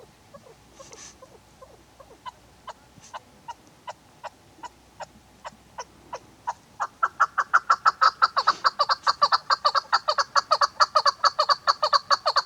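Chukar partridge calling: short clucking notes that start slow and faint, then speed up, and about seven seconds in turn into a loud, rapid run of about five notes a second.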